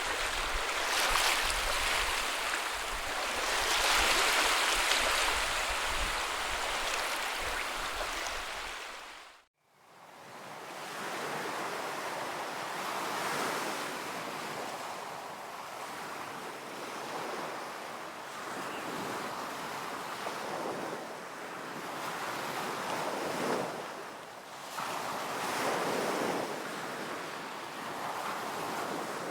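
Ocean surf breaking and washing onto a beach in repeated swells, with wind rumbling on the microphone. About nine seconds in the sound fades out briefly and returns as a wash of surf without the wind rumble.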